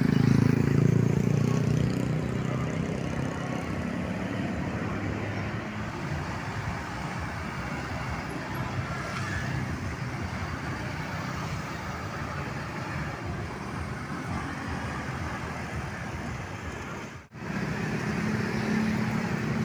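Road traffic with heavy vehicles passing: a large engine runs loud and close for the first couple of seconds, then steady traffic noise follows. The sound cuts out for an instant about 17 seconds in, and another heavy engine comes up close after it.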